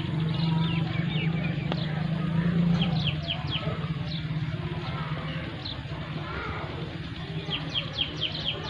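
Songbirds calling in quick runs of short descending chirps, a run near the start, another about three seconds in and a louder one near the end. Under them a steady low engine hum, strongest in the first three seconds, then fading.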